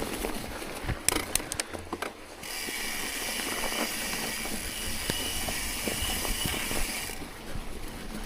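Bicycle rear hub freewheel buzzing steadily while the bike coasts, after a few clicks near the start.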